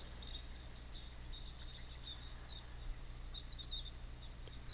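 Faint, scattered high chirps of small birds over a steady low hum.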